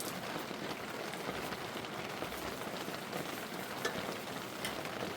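Steady rain hissing on surfaces, with a few scattered sharper drop ticks.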